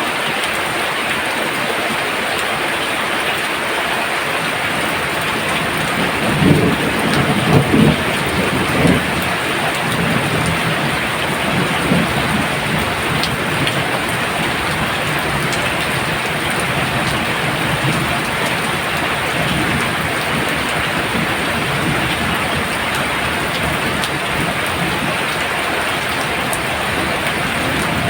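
Heavy rain pouring steadily, with a low rumble that swells for a few seconds about a quarter of the way through.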